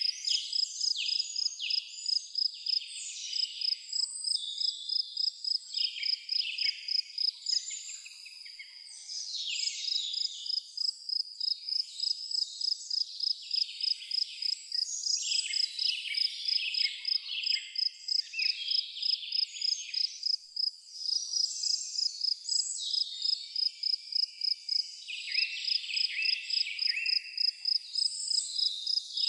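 Crickets chirping in a steady, even pulse at one high pitch, with several birds singing over it in short rising and falling phrases. The cricket chirping breaks off briefly twice.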